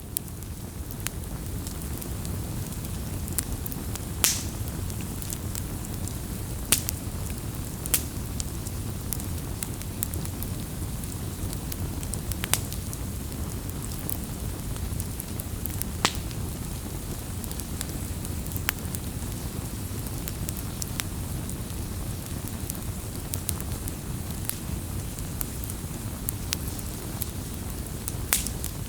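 Campfire crackling: a steady low rumble of burning wood with frequent sharp pops and snaps, the loudest a few seconds in and again near the end.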